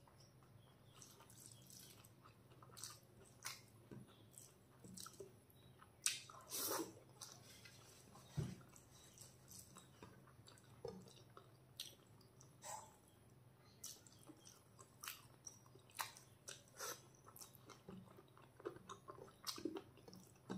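A person chewing a mouthful of chicken pulao and curry, with lip smacks: a run of short irregular clicks and smacks, the loudest about six seconds in.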